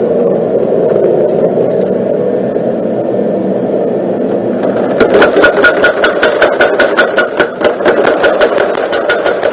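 Homemade motor-driven forging power hammer: its electric motor runs steadily, then about halfway through the hammer starts striking in a fast, even rhythm of roughly four to five blows a second.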